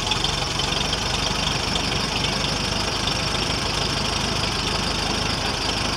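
Restored 1951 Farmall tractor engine running steadily, an even rapid stream of firing pulses.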